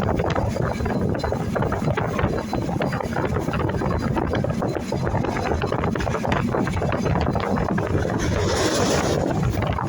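Moving train: a steady rumble and rattle of the carriage running on the track, with wind rushing over the microphone. Near the end a brief hiss rises over it.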